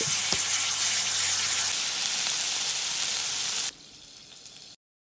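Ranch dressing frying in a hot cast iron skillet: a steady, loud sizzle that cuts off suddenly a little over three and a half seconds in.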